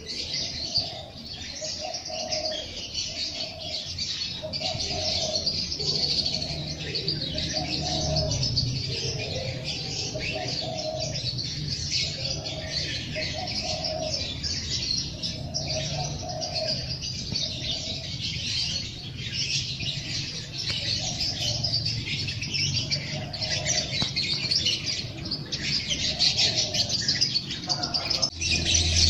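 A chorus of songbirds chirping and twittering without a break, with a lower call repeating about every two seconds underneath.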